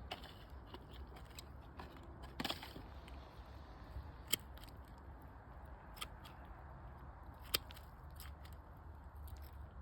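Scattered small clicks and crackles, about five sharp ones spread over several seconds, over a low steady rumble.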